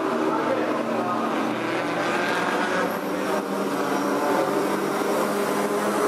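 Group A and Group C touring car engines running, several cars heard at once with pitches that shift up and down.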